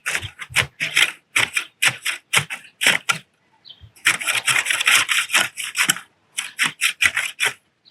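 Hand weeding tool scraped through the soil in quick repeated strokes, about two a second, with a longer stretch of continuous scraping in the middle.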